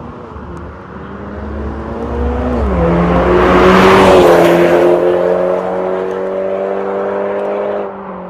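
BMW 530i's B48 turbocharged four-cylinder heard through an MS-R valved catback exhaust while driving. The exhaust note grows louder to a peak about four seconds in, with its pitch stepping down around three seconds in. It then holds a steady lower note and falls away sharply near the end.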